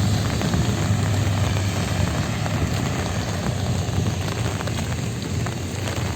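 Steady rain falling on the street, with a low, continuous rumble of passing traffic beneath it.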